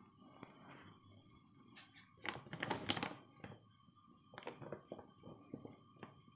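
Irregular light knocks and clatter, densest about two to three seconds in, over a faint steady hum.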